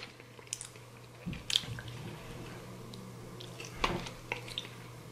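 A person chewing a crunchy Takis rolled corn tortilla chip with the mouth closed: soft, scattered crunches and a few faint clicks.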